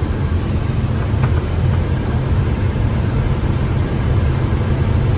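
International 7300 bucket truck's diesel engine and drivetrain running steadily at road speed, a constant low rumble with road noise.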